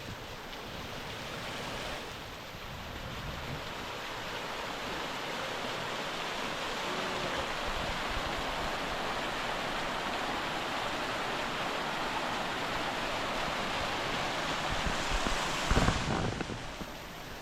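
Dușul Pădurarului waterfall's water falling and splashing in a steady rush. Near the end, a brief gust of wind buffets the microphone.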